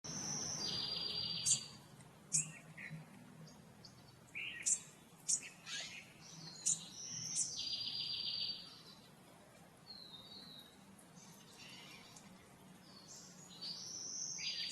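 Small songbirds singing: a high, fast trill repeated three times, with shorter high notes in between. Several sharp, irregular taps come in the first half.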